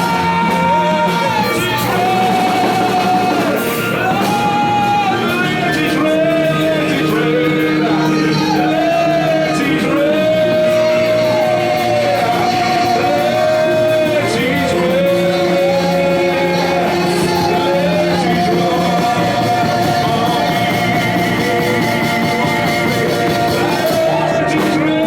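Church worship music: a voice sings a slow melody of long held notes over steady accompaniment.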